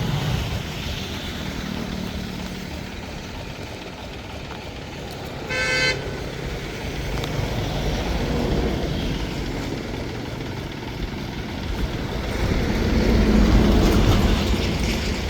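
An engine runs steadily throughout, rising a little in level near the end. A single short horn toot sounds about five and a half seconds in.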